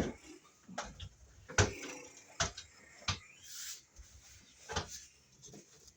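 A handful of sharp clicks and knocks, about five spread over several seconds, with a brief scraping hiss in between: tools and materials being handled.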